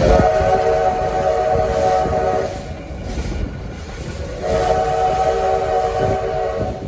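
Steam locomotive whistle blowing two long blasts, each a chord of several steady tones lasting over two seconds, with a gap of about two seconds between them: the opening of the crossing signal of two longs, a short and a long. The train's running rumble continues underneath.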